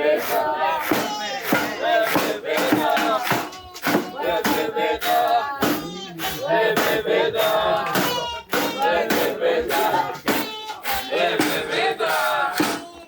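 Group chanting in Swahili, with regular sharp thuds about twice a second of a wooden pestle pounding sun-dried coffee beans in a mortar to break off the husk.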